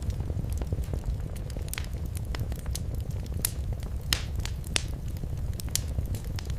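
Wood fire burning in a fireplace: a steady low rumble of the flames with irregular sharp crackles and pops, a couple of louder pops a little after the middle.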